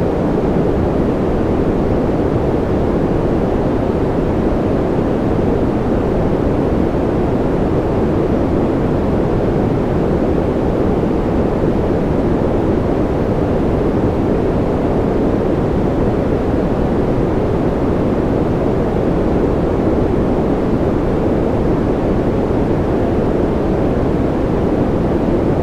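A steady, unchanging noise track with no distinct events, deep and muffled, its hiss weighted toward the low end and dull in the highs rather than the flat hiss of true white noise.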